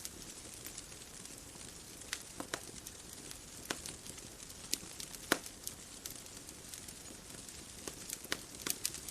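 Wood bonfire crackling: irregular sharp pops and snaps, bunched in small clusters with one louder pop in the middle, over a steady soft hiss.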